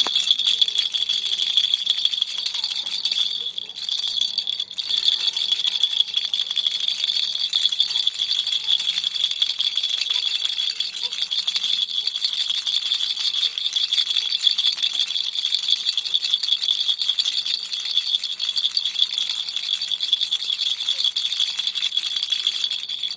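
Baby toy rattle shaken continuously, a dense, rapid high-pitched clatter of beads with only brief dips in the shaking.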